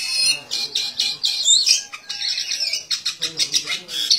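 A small bird squawking and chirping rapidly, many short high-pitched calls rising and falling in pitch, as it squares up to a rooster.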